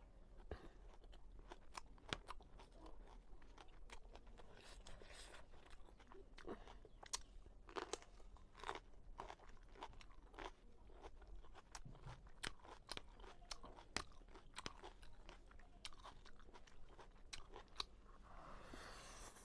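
Close-up mouth sounds of chewing a mouthful of fried noodles: many short wet clicks and lip smacks. Near the end comes a longer slurp as more noodles are drawn in.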